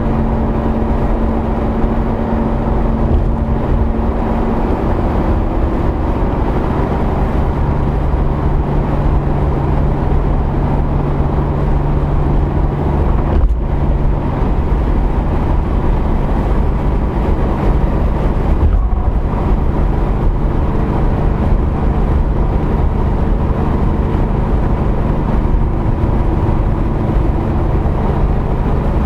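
Car engines running steadily, a continuous low rumble with a few held engine tones that shift pitch now and then.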